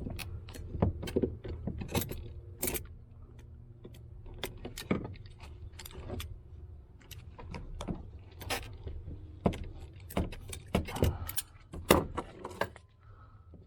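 Irregular metallic clicks and clinks of pliers working at a stuck fuel hose on a fuel pump assembly.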